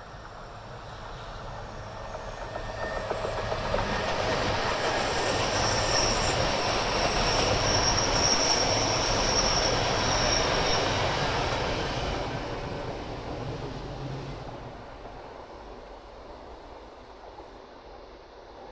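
Yamagata Shinkansen E3-series train passing: it grows louder over a few seconds and carries a high steady whine while it is closest, then fades away.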